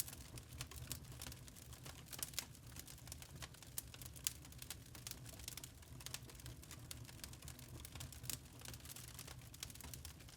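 Wood fire in a fireplace crackling, with frequent irregular small pops and snaps over a faint low rumble of the flames.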